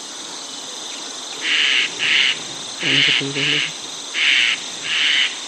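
Tropical jungle ambience: a steady high-pitched insect drone, over which some creature gives six short buzzy calls in three pairs, each call well under half a second.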